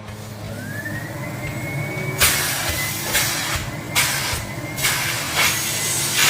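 Vacuum cleaner motor starting up, its whine rising in pitch and then holding steady over a low hum. From about two seconds in, bursts of rushing air come roughly once a second as the suction changes.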